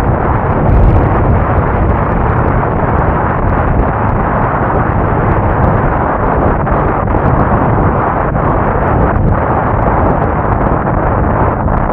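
Heavy wind rush on the microphone of a moving motorcycle, with the motorcycle's engine running underneath, steady throughout.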